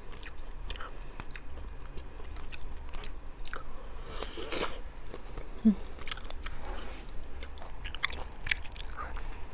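Close-up mouth sounds of a person eating seafood: chewing and biting with many small, sharp clicks and smacks. There is a louder slurping or sucking rush about four and a half seconds in.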